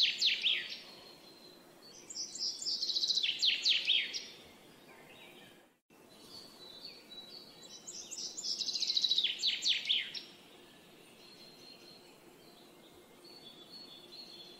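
A songbird singing the same short phrase again and again, each a quick run of notes falling in pitch and lasting about two seconds, over a faint steady hiss. Fainter high bird calls follow near the end.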